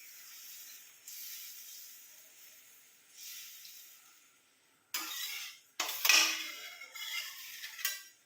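Chicken curry in a pan hissing and simmering just after cold water has been added, fading over the first few seconds. Then bursts of stirring and clatter in the pan, about five seconds in and again from about six to eight seconds.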